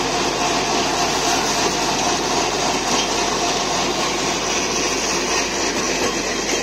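Sonalika 60 hp CRDi Tiger tractor running steadily under load, driving a Shaktiman rotavator through the soil: a dense, even engine and tilling noise.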